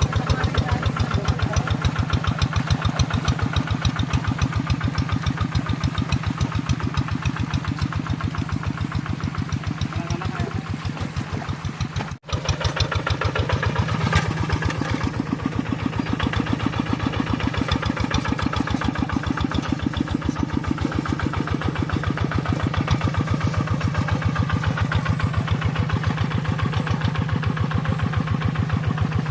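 Tractor engine running steadily at an even, rapid beat while plowing a field. It breaks off for an instant about twelve seconds in.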